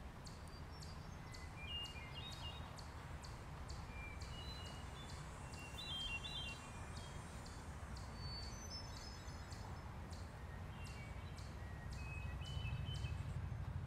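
Small birds chirping in short, high notes at irregular intervals over a steady low outdoor rumble, with a faint high ticking repeating about three times a second.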